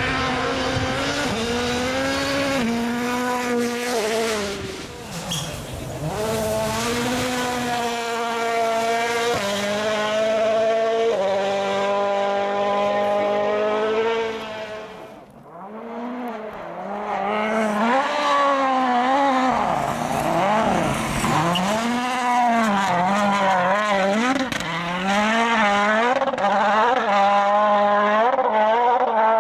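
World Rally Car 1.6-litre turbocharged four-cylinder engines at full throttle. In the first half, one car climbs in pitch and upshifts several times in quick succession, then fades. After a brief dip, a car's revs swing up and down rapidly as the throttle is worked.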